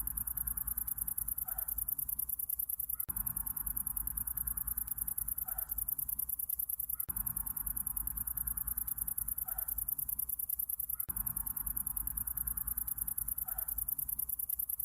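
Summer-night insect chorus: a very high, rapid pulsing trill that never stops, over a low rumble. A short call comes once every four seconds as the soundscape loops.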